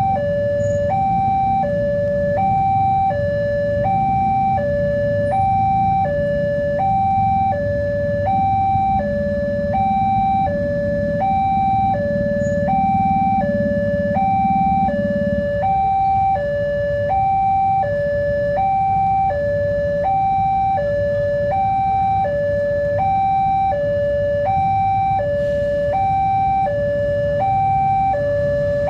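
Railway level-crossing warning alarm sounding a steady two-tone ding-dong, high and low notes alternating about once a second, which warns that a train is approaching and the barriers are down. A low rumble underneath drops away about halfway through.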